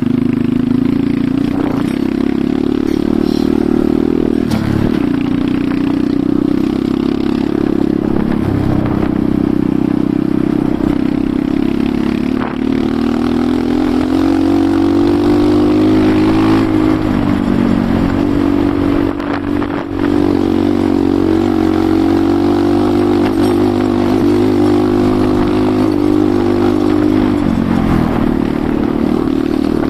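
Enduro motorcycle engine running under way, its pitch rising and falling with the throttle and dropping off briefly twice, with some clatter.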